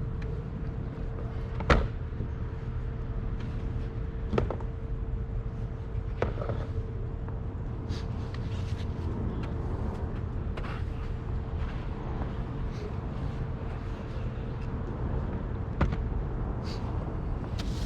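Steady low rumble with a constant faint hum, broken by a few sharp knocks about two, four, six and sixteen seconds in: a snow brush or scraper knocking against a car while snow is cleared off it.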